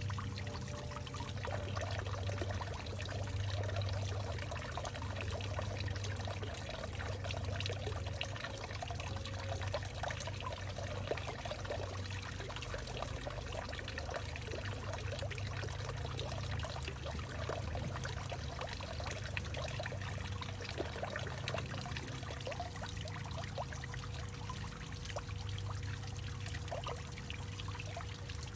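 Water trickling and pouring steadily in a hollowed-out tree, with many small drips and splashes.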